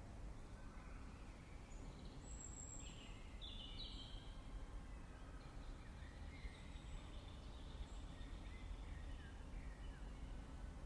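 Faint songbirds chirping, with a short high whistle about two seconds in and a cluster of chirps soon after, over a steady low background rumble.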